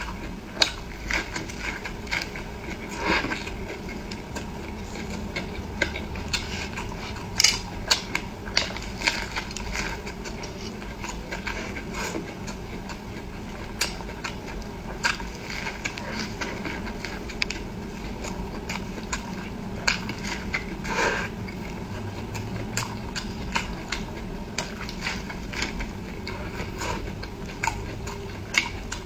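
A person eating close to the microphone: irregular wet chewing and mouth clicks, with occasional clinks of cutlery or dishes.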